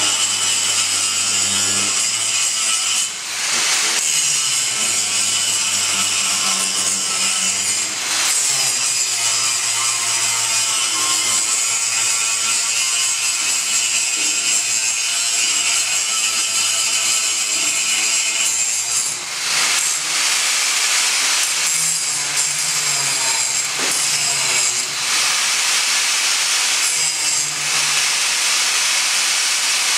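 Plasma cutter cutting through steel frame rails: a loud, steady hiss, broken by short stops as the arc goes out and restarts about four times.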